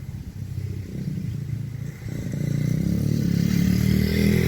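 Small dirt bike's engine running, growing much louder about two seconds in as the bike comes on under throttle.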